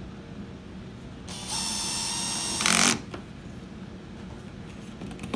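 Cordless drill/driver running a screw in: a steady motor whine lasting about a second and a half, turning louder and harsher just before it stops sharply as the screw seats.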